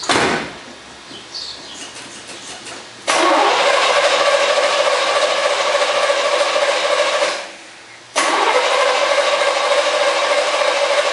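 Starter motor cranking the 350 V8 of a 1972 Corvette Stingray in two steady bursts of about four seconds each, with a short pause between, after a brief bump at the start. The engine does not catch: it is a first start attempt after years parked.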